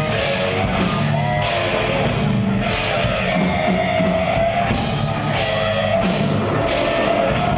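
Death metal band playing live, a drum kit and guitars at a steady, loud level with cymbal hits recurring throughout.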